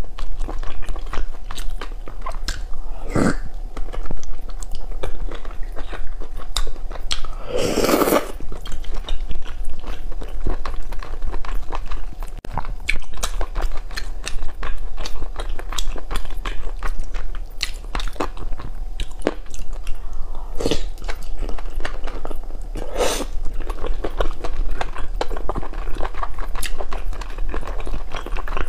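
Close-miked eating sounds of whole cooked squid: wet chewing, biting and squelching, with sticky tearing as the squid is pulled apart by hand. A few louder wet bursts stand out, the biggest about 8 seconds in.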